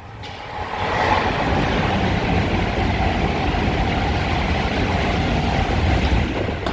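A train running through the station on the near platform: a loud, steady rushing and rail noise that builds over about the first second and then holds.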